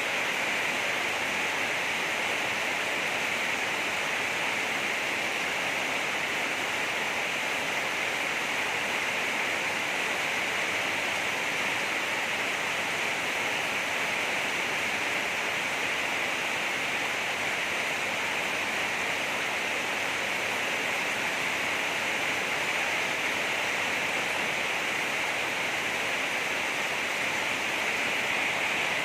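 Heavy rain falling steadily: a dense, even hiss that holds the same level throughout.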